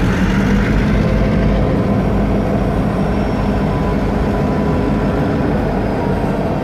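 Union Pacific train passing close by: a loud, steady rumble of wheels rolling on the rails, with a faint steady tone running under it.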